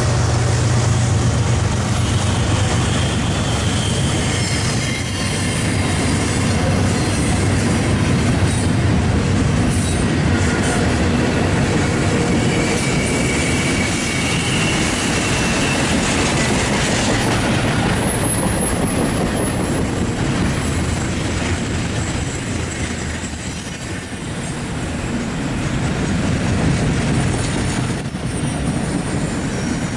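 Freight train rolling past, its cars clattering over the rails with thin, high wheel squeal coming and going. A low locomotive engine hum fades out in the first couple of seconds.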